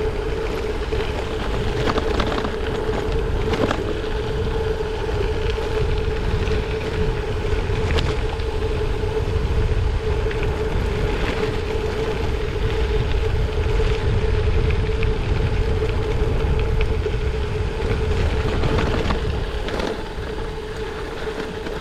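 Bicycle coasting downhill at speed: wind buffeting the action camera's microphone and tyres rolling over the road surface, with a steady hum under it.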